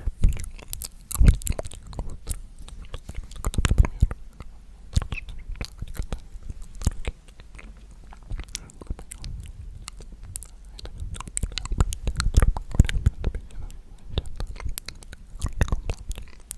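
Very close ASMR mouth sounds into a condenser microphone: dense, irregular wet clicks and crackles, with a few stronger soft thumps.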